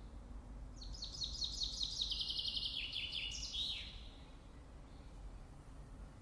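A songbird sings one phrase of about three seconds, starting just under a second in: a fast series of short repeated notes that step down in pitch and end in a final flourish.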